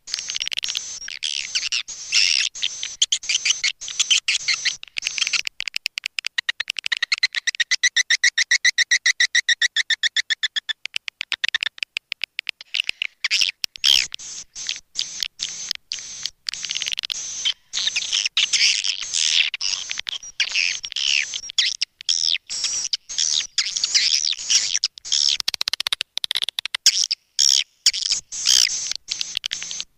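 Swiftlets twittering: a dense, continuous stream of rapid high chirps, with a fast, even rattling trill about 7 to 10 seconds in. This is a recorded swiftlet call, the kind played as a lure to draw swiftlets into a nest house.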